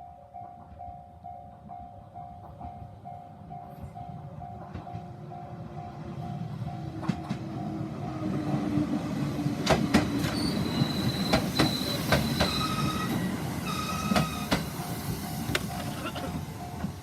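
Japanese level-crossing warning bell dinging at about two and a half a second while a two-car JR 211-series electric train passes over the crossing. The train's rumble builds from about six seconds in, with sharp wheel clacks over the rail joints and short high squeals from the wheels, and the bell comes through again near the end.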